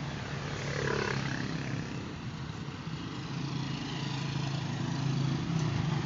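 A vehicle engine running with a steady low note, with a brief sweep in pitch about a second in.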